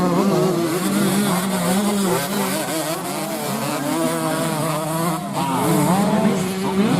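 Several racing motorcycle engines running and revving together, their pitch repeatedly rising and falling.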